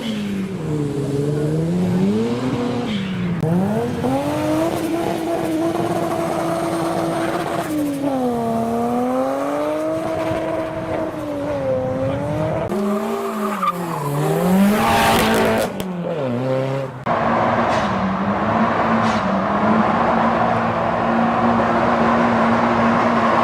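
Car engine revving, its pitch rising and falling again and again, with a brief loud burst of noise about 15 seconds in. About 17 seconds in it cuts abruptly to a steadier engine note with a hiss behind it.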